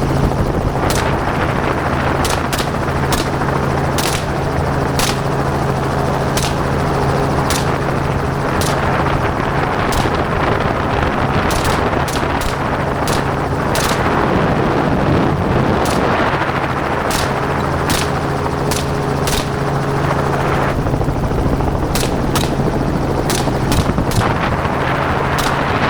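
Helicopter running steadily while the shooters aboard fire gunshot after gunshot at irregular intervals, often several in quick succession, dozens of shots in all.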